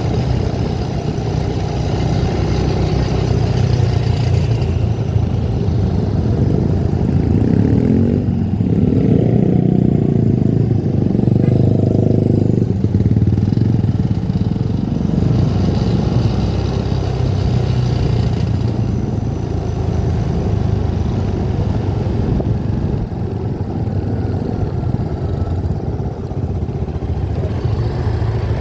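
A vehicle on the move: engine running with road noise, its engine pitch rising and falling briefly about a third of the way in.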